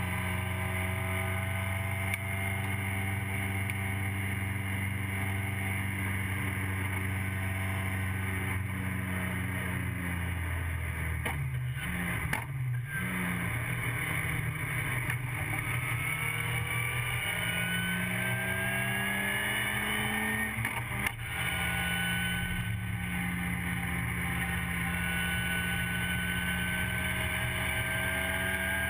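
TVR Vixen race car's Ford Kent Crossflow four-cylinder engine, heard from inside the cockpit, running hard at high revs. Near the middle the note drops and briefly dips, then it climbs again. About two-thirds of the way through a quick gearchange breaks the note, and it settles back to a steady high pitch.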